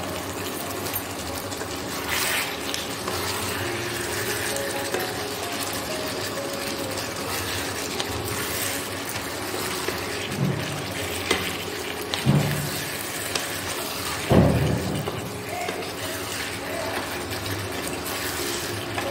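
Chilli chicken in a thick sauce sizzling and bubbling in a non-stick wok, stirred with a plastic spatula that scrapes and knocks against the pan. The scrapes come several times in the second half, the loudest about three-quarters of the way through.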